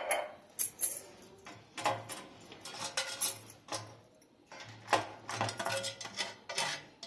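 Utensil scraping and clinking against a metal cake tin in irregular short strokes while ghee is spread around the inside of the tin.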